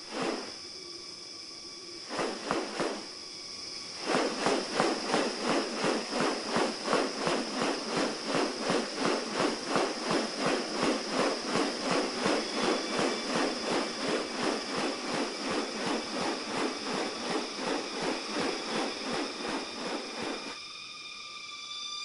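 Rainforest insects: a steady high-pitched insect drone, joined about four seconds in by a fast, even pulsing of about three beats a second, which stops shortly before the end.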